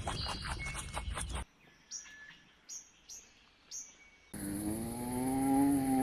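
A sequence of animal calls: a fast chattering run, then three short high chirps, then a long pitched call over a steady high insect-like whine.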